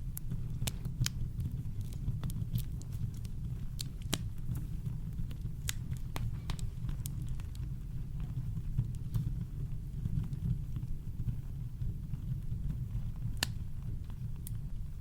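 Wood campfire crackling, with sharp pops and snaps at irregular moments over a steady deep rumble of brown noise.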